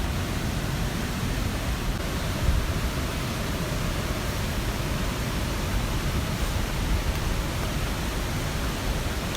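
Mountain stream rushing steadily, an even water noise.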